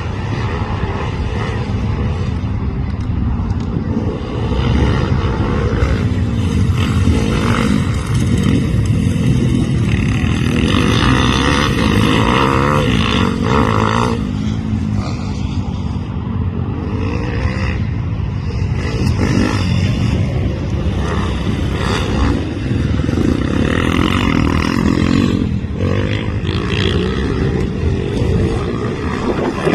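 Pit bike engine running hard throughout, its pitch and loudness rising and falling as the throttle is worked.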